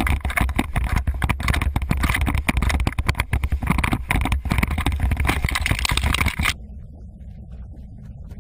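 Loud, crackling wind rush and handling noise on a moving camera's microphone, with a deep rumble underneath. It cuts off abruptly about six and a half seconds in, giving way to a quieter low rumble.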